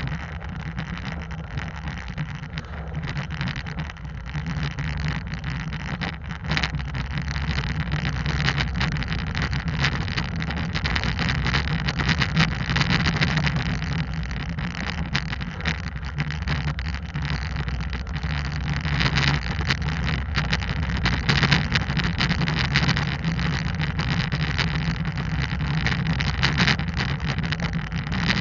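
Hyundai Santa Cruz pickup driving on a rough unpaved road, heard from a mount on the outside of the truck: a steady hum of engine and tyres under a hiss of road and wind noise, with frequent small ticks and knocks from the road surface.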